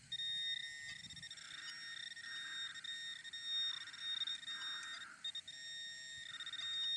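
Metal detector giving a steady, high-pitched electronic tone with a couple of brief breaks, sounding over a buried metal target. Low wind rumble underneath.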